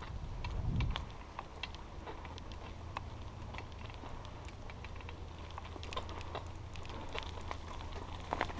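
Scattered, irregular small clicks and ticks, with a thump about a second in, over a steady low wind rumble on the microphone.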